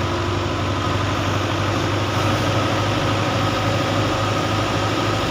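A heavy engine of farm machinery runs steadily at constant speed, with an unchanging low drone and a faint steady whine.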